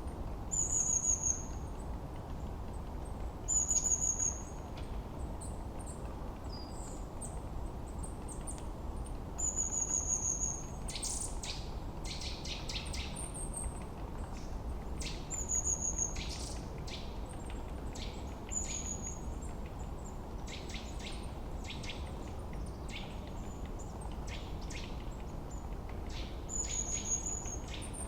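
Forest birdsong over a steady low rushing background. One bird repeats a short, slightly falling high-pitched whistle every few seconds, and from about eleven seconds in other birds add quick runs of chirps.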